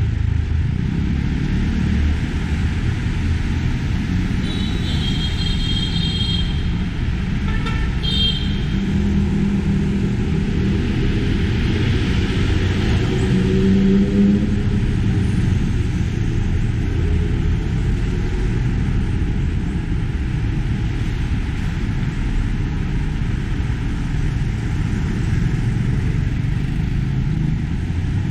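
Steady city street traffic: cars and motorcycles running and passing, a continuous low rumble. Brief high-pitched tones break in twice, about five and eight seconds in.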